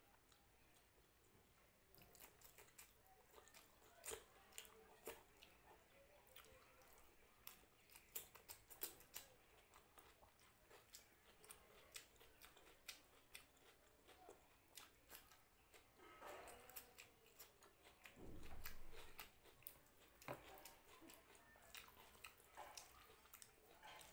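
Quiet, close-up chewing of a hand-eaten meal of rice and dal, with many small wet mouth clicks and smacks. About eighteen seconds in there is a single louder, duller low sound.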